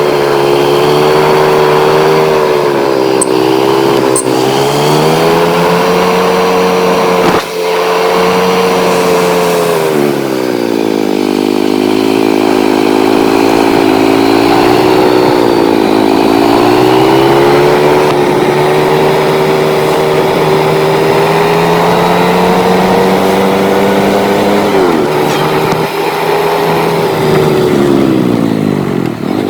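Motorcycle engine running under way, its pitch climbing and falling several times as the throttle opens and closes, with a brief drop in between as gears change.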